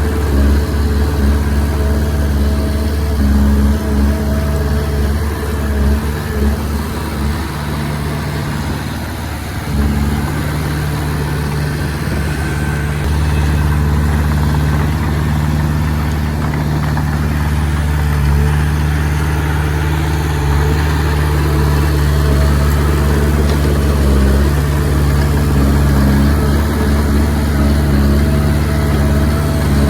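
Komatsu D20P bulldozer's diesel engine running under varying load as it pushes soil. The engine note sags about nine seconds in, then picks up and holds steady.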